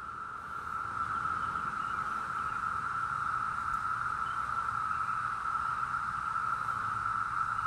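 Chorus of periodical cicadas: a steady, high, unbroken drone of many males singing together, swelling slightly about a second in.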